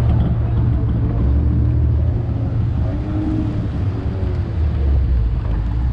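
Steady low rumble of vehicle engines running nearby, with faint wavering voices in the background around the middle.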